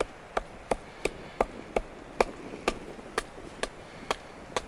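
Wooden baton striking the spine of a knife to split an oak billet: about a dozen sharp, even knocks at roughly two to three a second, slowing slightly near the end.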